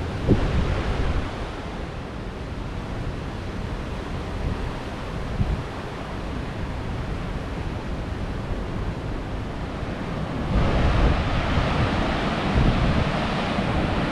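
Wind gusting over the microphone, a steady rushing roar with low buffeting rumbles that grows louder about ten seconds in.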